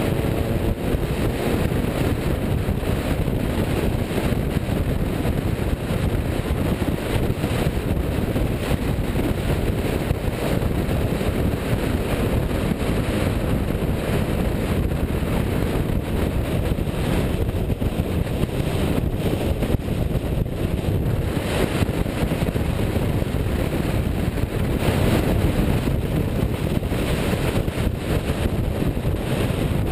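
Car driving with its engine running, heavy wind buffeting the microphone over it. The engine note rises briefly near the start.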